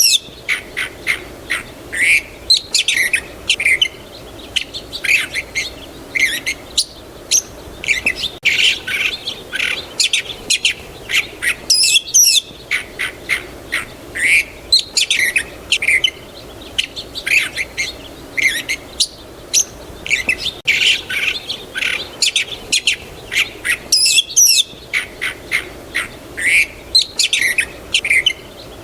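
Small songbirds chirping and twittering, a dense run of short, quick high notes with calls overlapping one another.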